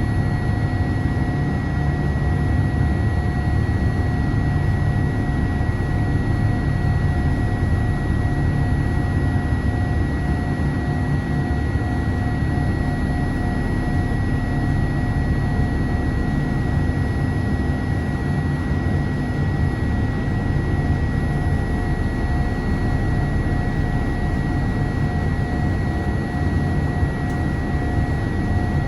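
Cabin noise inside a Boeing 787-8 climbing after takeoff: a steady rush of air and deep engine drone, with a thin steady whine running through it.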